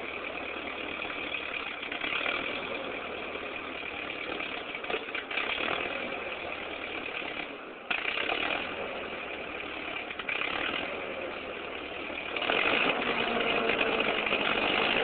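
1949 Ford 8N tractor's four-cylinder flathead engine running steadily at idle while it warms up, now running a lot better after a wiring repair. It gets louder near the end.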